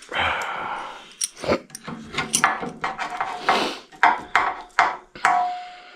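Metal hand tools clinking and knocking as they are handled and tapped against metal, a dozen or so sharp clacks, a few ringing briefly; a scraping rub about a second in, and a short metallic ring near the end.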